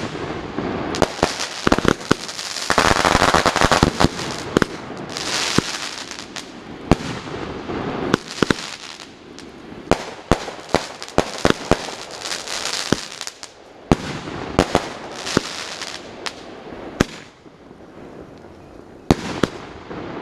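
Fireworks firing in quick succession: many sharp bangs, with dense bursts of crackling about three and five seconds in.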